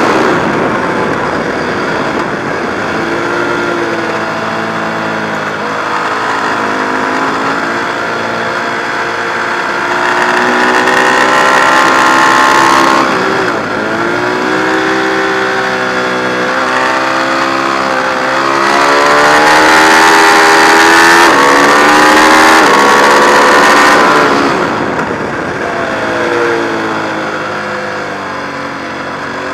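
Ducati 1098's L-twin engine under hard acceleration, its pitch climbing through the gears. The pitch drops sharply about halfway through and again near the end as the bike brakes and downshifts for corners, then climbs again.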